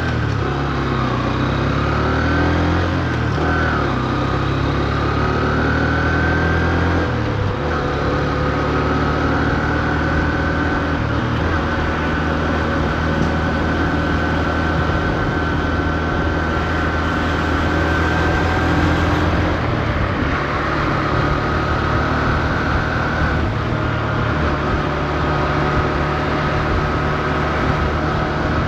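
Honda CB125F's single-cylinder engine running under way at modest revs while the new engine is run in. Its pitch rises and falls over the first several seconds, then holds steadier for the rest, with a few small shifts.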